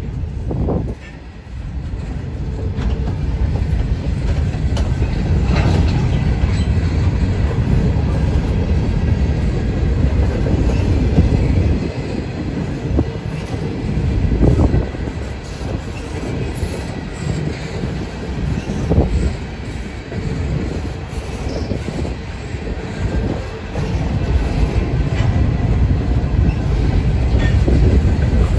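Norfolk Southern freight train of open-top hopper cars rolling past close by: a steady heavy rumble of steel wheels on rail, with a clack every few seconds as wheel trucks pass.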